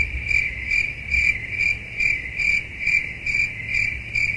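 Cricket chirping: a steady high trill that pulses about two to three times a second, over a faint low hum.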